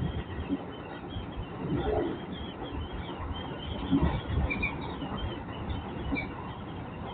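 JR West 205 series electric train running, an uneven low rumble with short high squeaks scattered through it.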